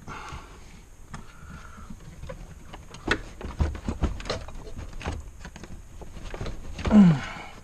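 Clicks and knocks of tools and car interior trim parts being handled during disassembly, with a short, loud sound falling in pitch near the end.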